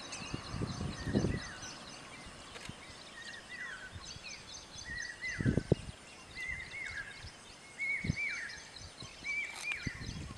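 Background birdsong: one bird repeats a short falling two-note call about once a second, growing louder towards the end, over many faint high chirps. A few low thumps come through, the loudest about five and a half seconds in.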